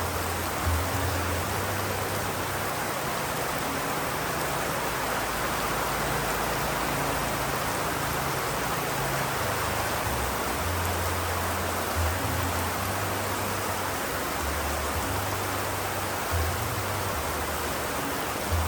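Steady heavy rain, an even dense hiss, with a low rumble that comes and goes underneath.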